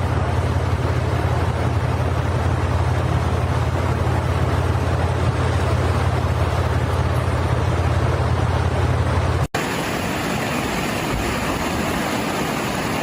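Strong storm wind on the microphone: a steady roar with heavy low rumble. About nine and a half seconds in it cuts off abruptly to a lighter, hissing wind from another clip.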